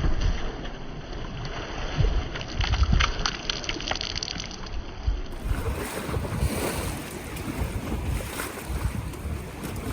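Wind buffeting the microphone in uneven low gusts, with small lake waves lapping and splashing.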